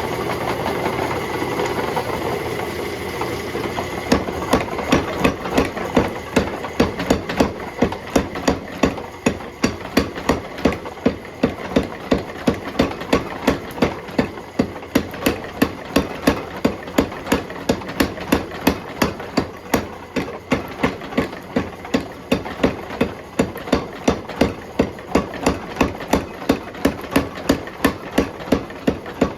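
Steady hammer blows forging a bar of steel, about two to three strikes a second, starting about four seconds in. A steady mechanical running noise continues underneath.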